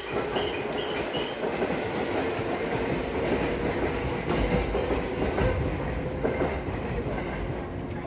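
A JR 185 series electric train pulling away from the platform: a steady motor and wheel tone over rumbling wheels on the rails. About two seconds in there is a burst of high hiss lasting about two seconds, and the low rumble grows heavier as the train moves off.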